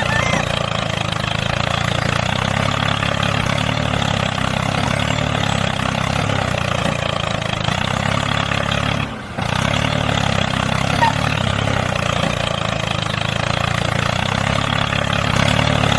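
Small tractor engine running steadily while pulling a plough, with a brief break a little past halfway.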